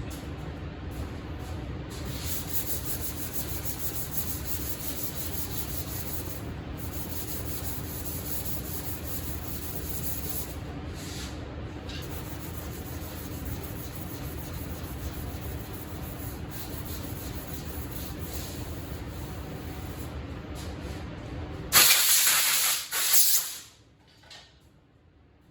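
Power sander running steadily on a car body panel's primer surfacer, a constant hum under an even sanding hiss. About 22 seconds in it stops, and two loud blasts of compressed air from an air blow gun, about two seconds in all, blow off the sanding dust.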